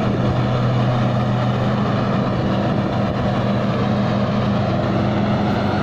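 Tai Seng rice combine harvester's engine running steadily under heavy load as the machine labours through deep, wet mud; the lowest engine note fades near the end.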